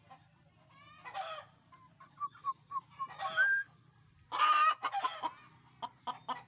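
Chickens clucking: a run of short, evenly spaced clucks, a louder drawn-out call a little past the middle, then quick choppy clucks near the end.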